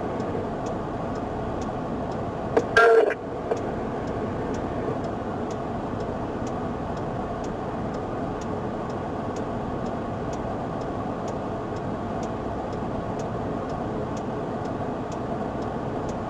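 Steady hum inside a police car with a light, regular ticking about twice a second. A short, loud squawk from the police radio comes about three seconds in.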